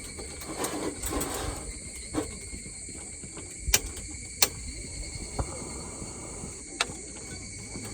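Steady outdoor summer insect chorus, several high unchanging buzzing tones, with a few sharp clicks or knocks near the middle and toward the end.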